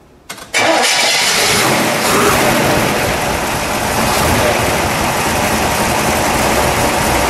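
Chevrolet 396 big-block V8 in a 1969 Nova SS starting up: a brief crank, then it catches about half a second in and runs loudly and steadily at idle.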